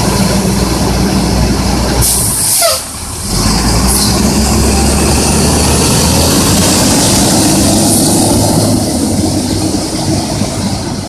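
Garbage truck's diesel engine running steadily, with a sharp burst of hissing air about two seconds in, like an air brake release.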